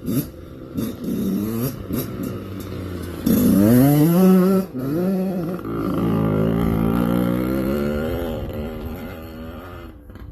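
Motorcycle engine revving: two quick rises in pitch a little past three seconds in, then held up for several seconds and slowly easing back down.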